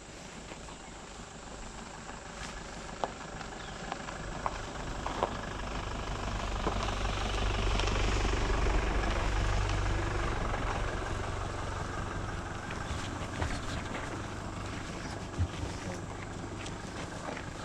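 A motor vehicle passing by: a low engine rumble that builds slowly, is loudest about halfway through, then fades away.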